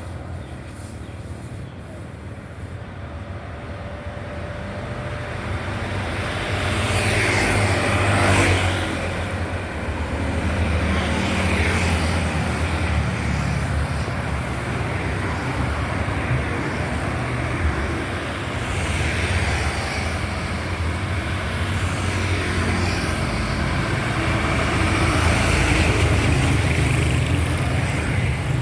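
Road traffic: motor vehicles passing close by one after another over a steady deep engine rumble. The rumble builds over the first few seconds, and the clearest pass comes about eight seconds in.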